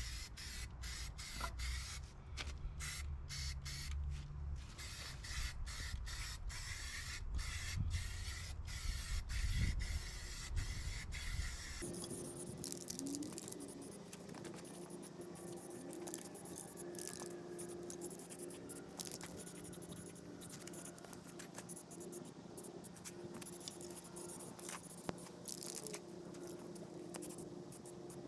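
Paint being sprayed in many short hissing bursts over a low rumble. About twelve seconds in, the sound changes abruptly to a steadier hiss with a low, steady hum.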